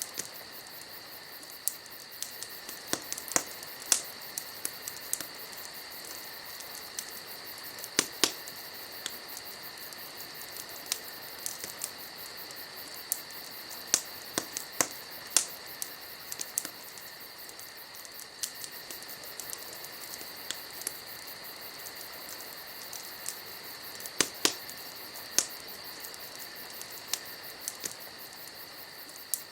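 Wood fire crackling, with sharp irregular pops, over a steady high-pitched chorus of night insects.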